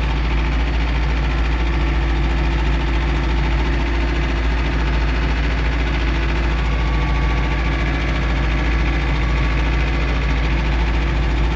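Two-wheel-drive loader tractor's engine running steadily under load as it climbs a slippery driveway, with an even hum and no change in pitch.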